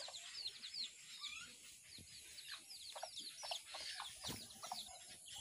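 Birds chirping: many short, high, falling chirps overlapping in quick succession, several a second, fairly faint.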